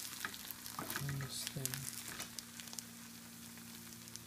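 Faint crackling sizzle of plant-based burger patties and a green onion pancake frying in oil in two pans, over a steady low hum. A brief murmur of voice comes about a second in.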